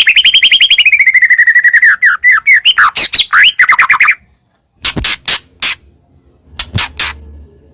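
White-rumped shama (murai batu) singing: a fast trill of rapidly repeated notes, then varied gliding phrases that break off about four seconds in, followed by a few sharp clicking notes.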